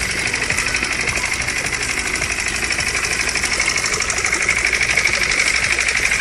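A small motor or engine running steadily, with a rapid, even beat that strengthens slightly near the end.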